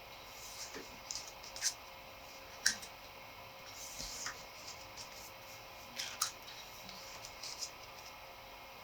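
Handling of a photo book and its paper: a few sharp clicks and soft scraping rustles, with a faint steady hum underneath.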